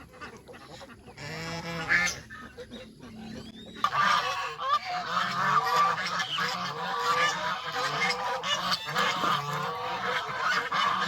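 A flock of domestic geese honking: a few calls at first, then from about four seconds in many geese call at once in a dense, continuous chorus.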